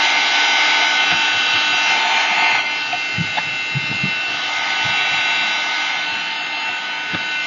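Handheld craft heat tool blowing steadily, an air rush with a high motor whine, drying a wet gesso wash on canvas. It cuts off at the very end.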